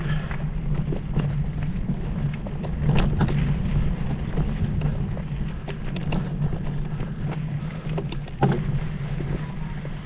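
Steady low wind rumble buffeting the microphone, with scattered sharp clicks and knocks throughout.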